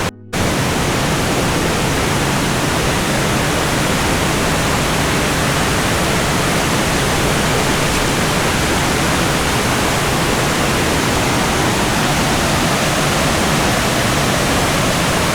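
Waterfall water rushing as a steady, loud hiss, dropping out for a split second right at the start.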